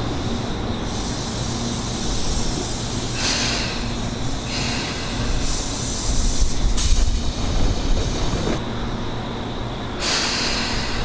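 Electric commuter train running past on the line, a steady rumble of wheels and motors that grows loudest a little after halfway, mixed with gusts of strong wind on the microphone.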